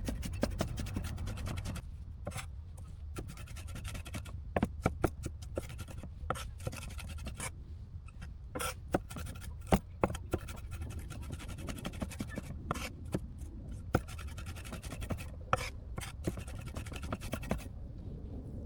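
Irregular small clicks, taps and scratching from hands at work, over a steady low rumble.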